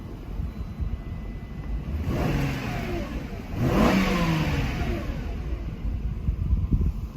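A 1997 Mercedes-Benz SL500's 5.0-litre V8 idles with a low rumble and is revved twice. The second blip, about three and a half seconds in, is the sharper and louder; its pitch climbs quickly, then falls back to idle.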